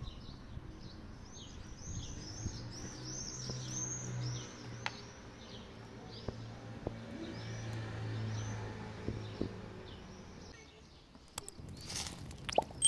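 Songbird singing outdoors: a fast run of high, arching chirps repeated several times a second, which thins out and stops about ten seconds in. A low drone sounds twice underneath, and a few sharp knocks come near the end.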